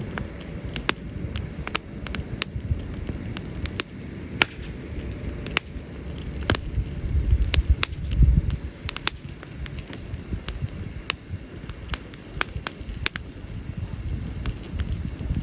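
Wood campfire crackling, with many irregular sharp pops and snaps. Under them runs a low rumble that swells briefly about halfway through.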